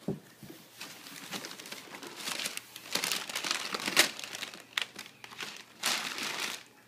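Gift wrapping paper being crinkled and torn in irregular rustling bursts as a present is unwrapped, with a sharp rip about four seconds in.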